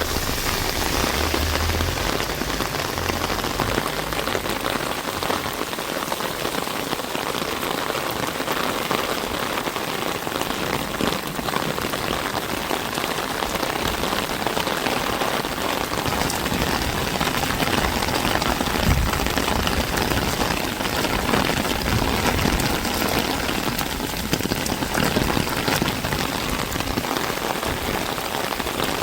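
Steady rain falling, with many close drops heard as fine ticks over an even hiss.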